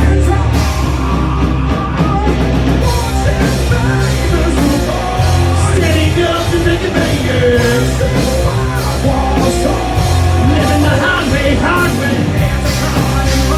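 A rock band playing loud and live, with a singer over the band.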